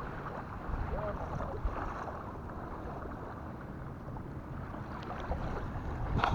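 Steady wind rumble on the microphone over the wash of surf at the beach, with a brief sharp click right at the end.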